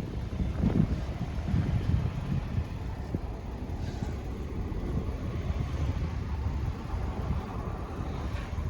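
Low, gusty rumble of wind buffeting the microphone outdoors, with no distinct event standing out.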